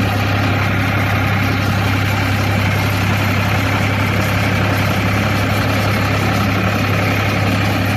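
Tractor's diesel engine running steadily with a deep, even drone.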